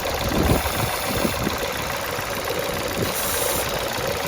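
Citroen C1 engine idling steadily and evenly, ticking over normally now that the intake air leak has been sealed. A brief hiss comes about three seconds in.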